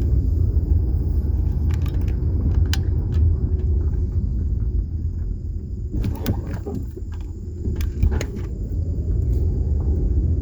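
Low rumble of a car driving slowly, heard from inside the cabin, with scattered light clicks and knocks.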